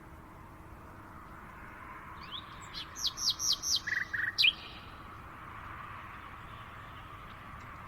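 A songbird singing one short, quick phrase of high, downward-slurred notes a couple of seconds in, over a steady faint background hiss.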